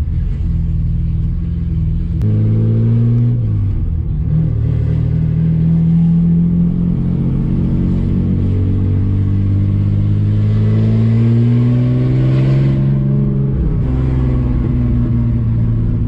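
Ford AU Falcon's engine and exhaust heard from inside the cabin as the manual car pulls away and accelerates. The pitch climbs through the gears and drops briefly at each gear change, once a few seconds in and again near the end.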